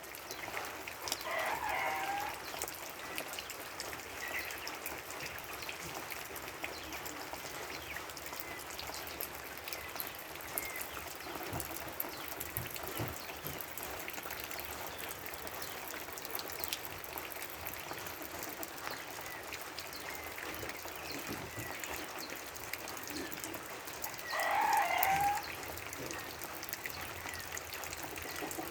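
A rooster crowing twice, once near the start and again about 24 seconds in, each call lasting about a second and a half, over a steady background hiss.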